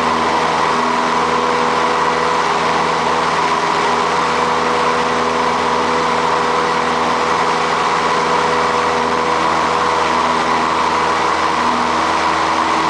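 Light airplane's piston engine and propeller droning steadily at a constant pitch.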